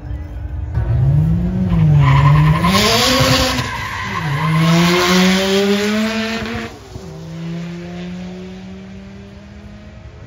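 Nissan R32 Skyline GT-R's engine revving up and down with its tyres squealing in a long spell of wheelspin. About seven seconds in, the squeal stops and the engine drops to a steady lower tone.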